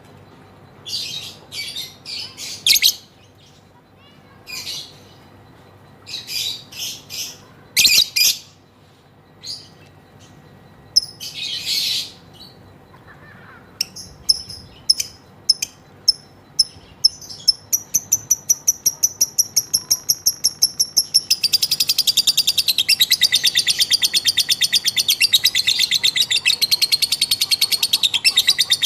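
Female lovebird calling: scattered sharp chirps at first, then quick repeated notes that speed up into a long, continuous rapid chatter (the 'ngekek') from about two-thirds of the way in.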